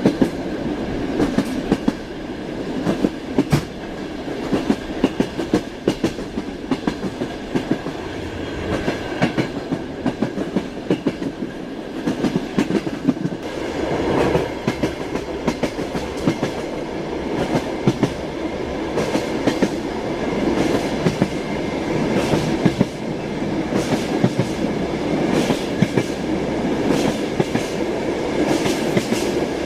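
Train wheels clattering over rail joints with a steady rolling rumble, heard from inside a passenger carriage's compartment. The clicks come irregularly, often in quick pairs.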